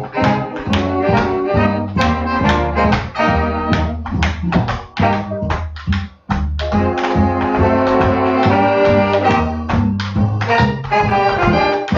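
Swing jazz played by a big band with brass and saxophones over a steady beat, with a brief break about six seconds in before the band comes back in.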